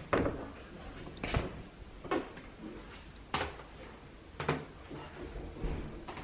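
Footsteps on a hard floor indoors: a series of soft knocks about once a second.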